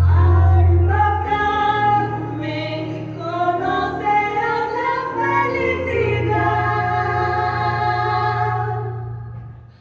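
Musical-theatre song: voices singing long held notes over a deep sustained bass line, the music fading out near the end.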